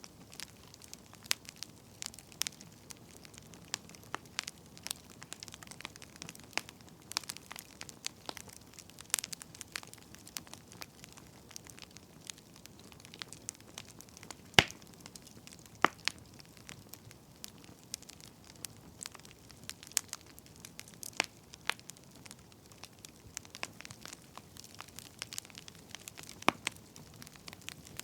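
Wood fire crackling, with irregular small snaps and pops over a faint hiss of burning logs, and a louder pop about halfway through.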